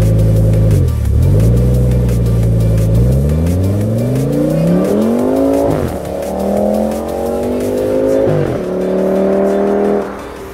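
Audi RS6 C6's twin-turbo V10 through an MG exhaust, accelerating hard through the gears: the engine note climbs in pitch, drops at two upshifts about six and eight and a half seconds in, then falls away suddenly near the end.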